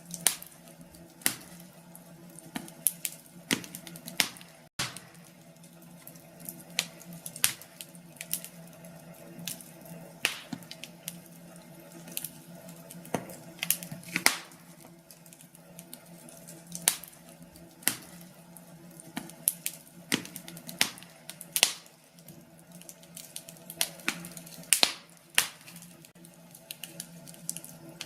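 Wood fire burning in a fireplace, crackling with irregular sharp pops, a few each second, over a faint steady hum.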